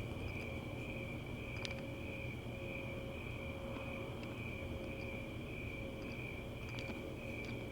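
Insects trilling steadily in a constant high-pitched drone over a low steady hum.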